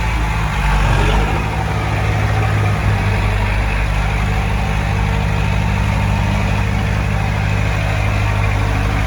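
Heavy diesel engine of earthmoving equipment running steadily at low revs, a slight swell about a second in.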